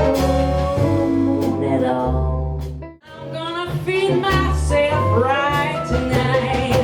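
Live swing and blues band music with a woman singing the melody over strong low bass notes. The music cuts out for a moment about three seconds in, then carries on.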